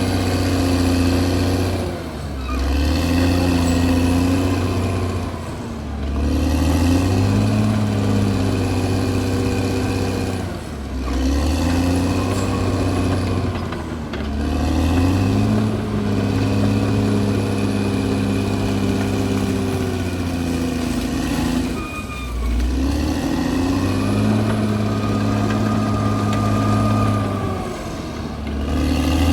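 CAT D6R bulldozer's diesel engine running hard, its pitch sagging and recovering several times every few seconds.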